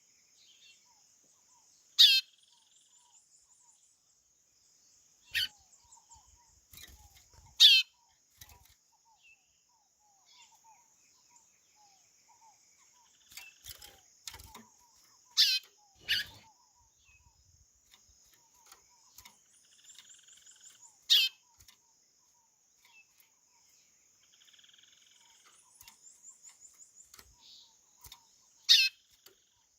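White-bellied seedeater (chorão) calling: about six loud, quickly falling whistled notes spaced several seconds apart, with faint high chirping trills in between.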